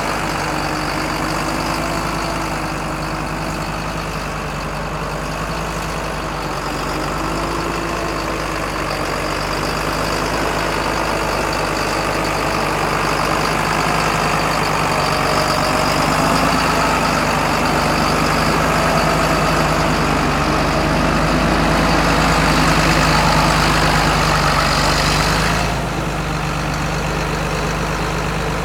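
John Deere 8410T tractor's diesel engine idling steadily. It grows a little louder for a stretch, then drops back suddenly near the end.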